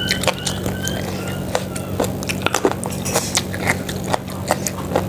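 Close-miked eating sounds: chewing and wet mouth smacks while eating chicken-foot soup, heard as a run of irregular short clicks.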